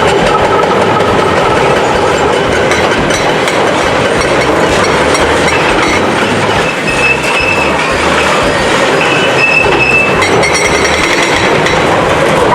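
Heavy construction machinery running loud and steady, with a clattering rumble and brief high-pitched squeals about seven and nine and a half seconds in.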